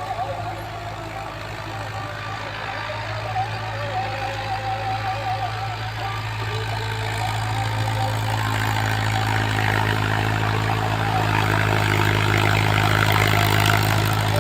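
Mahindra tractor's diesel engine running steadily, growing louder from about halfway through with a rising rush of mechanical noise on top.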